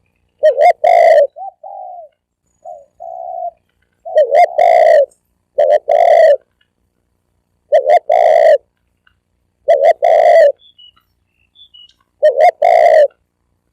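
Spotted dove cooing its call, loud: a short coo run into a longer rolling coo, repeated six times about every two seconds, with a few softer coos between the first two phrases.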